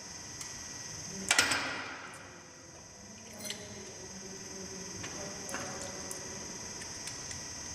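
Unit injector workshop sounds: a steady high-pitched whine, scattered light clicks and taps, and a short loud hiss about a second in that fades quickly, with a smaller one a couple of seconds later.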